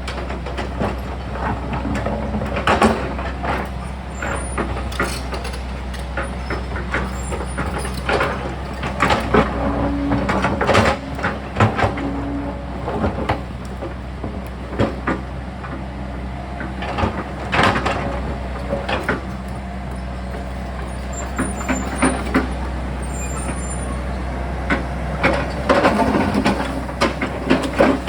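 Sany excavator's diesel engine running steadily under load, with frequent irregular knocks and scrapes as the bucket digs into rock and earth on the hillside.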